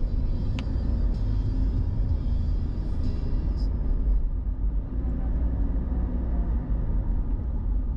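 Steady low road rumble of a car driving, heard from inside the moving vehicle, with a couple of faint brief ticks in the first few seconds.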